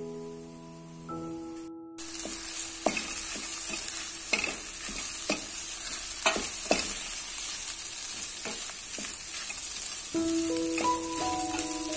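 Food frying and sizzling in a pan, with a utensil scraping and tapping against the pan as it is stirred. Soft background music plays at the start and comes back near the end.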